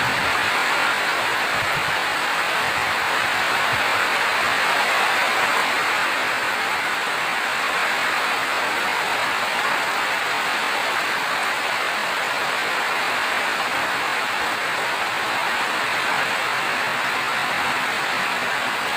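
Steady rain falling, an even hiss with no distinct drops or pauses.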